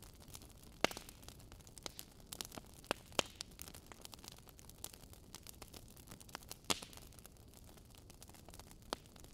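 Wood fire in a fireplace crackling: irregular sharp pops and snaps over a soft steady hiss, the loudest pops about a second in, around three seconds in and near seven seconds in.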